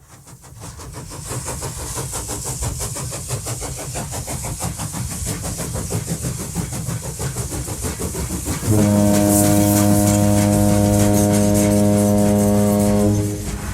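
Frisco 1630, a 2-10-0 Decapod steam locomotive, chuffing rhythmically as it runs, fading in at first. About nine seconds in its steam whistle blows one long steady blast of about four and a half seconds, over the chuffing.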